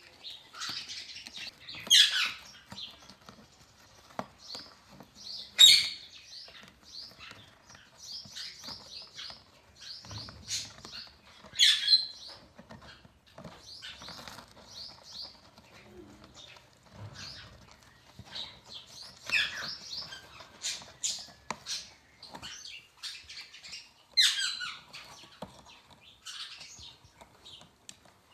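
An Alexandrine parrot and an African grey parrot squabbling: a run of short chirps and clicks, broken about five times by loud squawks.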